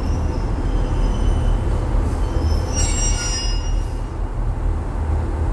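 Railway station platform sound: a steady low rumble of trains, with a high-pitched squeal of train wheels from about two to four seconds in.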